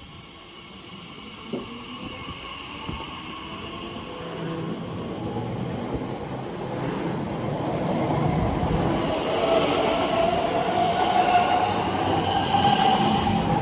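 Elizabeth line Class 345 electric train pulling away from the platform, growing louder as its traction-motor whine rises in pitch with the acceleration.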